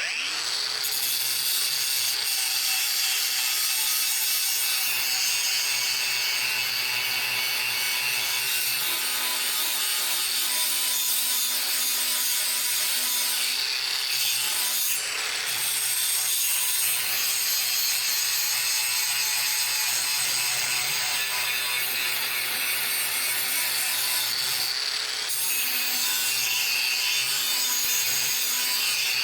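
Electric power tool running steadily under load against the steel of an old saw blade, shaping the knife blank. It starts abruptly and keeps a constant motor hum under a hiss of metal being abraded.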